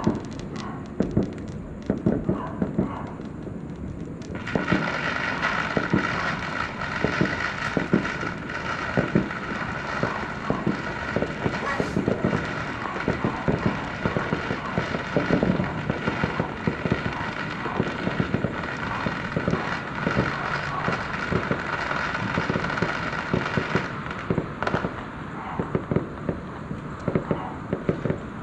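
Fireworks going off: many rapid, overlapping bangs and pops, which thicken into a dense, continuous crackle from about four seconds in until near the end.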